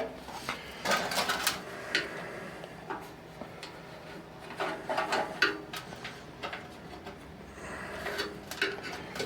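Scattered clicks and light metal clatter of a hand screwdriver working small screws out of a furnace blower's sheet-metal cover.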